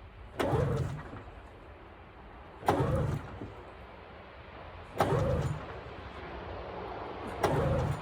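Recoil pull-starter of a 1996 Arctic Cat ZRT 600 two-stroke triple being pulled four times, about two seconds apart, each pull a short loud rip as the engine turns over. It is a cold start on a freshly rebuilt fuel pump, and the engine does not settle into running between pulls.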